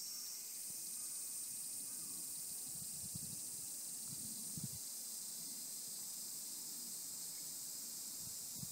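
Cicadas calling in a steady, high-pitched drone. One voice drops out just after the start while a higher one swells in, with a few soft low thumps about three, four and a half and eight and a half seconds in.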